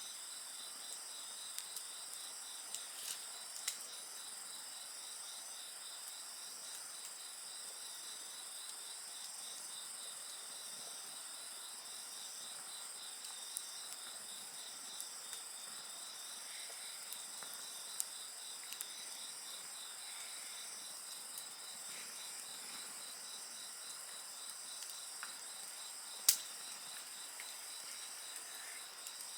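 A chorus of night-singing insects such as crickets: several steady high trills at different pitches, one pulsing in a fast even rhythm. A campfire crackles with scattered small pops, and one sharp loud pop comes near the end.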